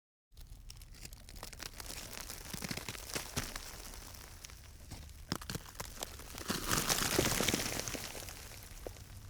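Footsteps crunching and rustling on rough, stony ground in irregular steps, with a louder, longer stretch of crunching around seven seconds in.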